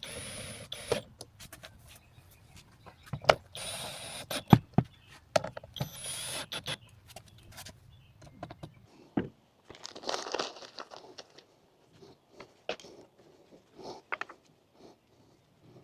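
Assembly handling noises from fitting a camper platform kit: scattered clicks and knocks of hardware and panels, with three short bursts of hissing noise in the first seven seconds and another about ten seconds in.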